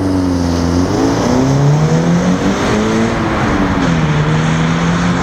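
Subaru BRZ's flat-four engine pulling under acceleration, with road and wind noise: its pitch climbs over the first couple of seconds, falls away about four seconds in, then holds steady.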